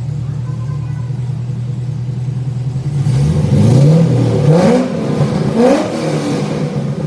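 Car engine idling through a Borla aftermarket exhaust, then revved about three times in quick blips about three seconds in, each rise in pitch falling back to idle.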